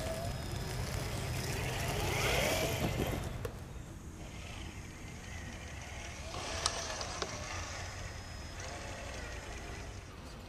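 Radio-controlled crawler truck's electric motor and gears whining, the pitch rising and falling as the throttle is worked, loudest about two to three seconds in, with a sharp click about two-thirds of the way through.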